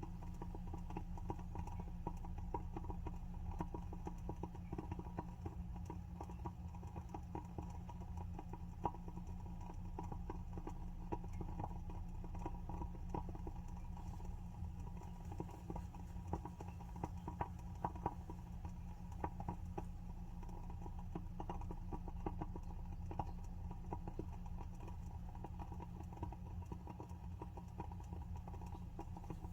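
WoodWick candle's wooden wick crackling as it burns: a continuous run of small, irregular pops and ticks, a few a little louder, over a low steady hum.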